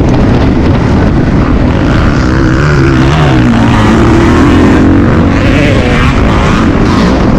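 Motocross dirt bike engine running hard, its revs rising and falling as the throttle opens and closes.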